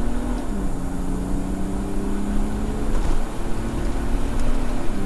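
Hybrid-turbo BMW 535d's twin-turbo straight-six diesel pulling hard under full throttle, heard inside the cabin. The engine note climbs steadily, with a gear change dropping the pitch about half a second in and another just before the end.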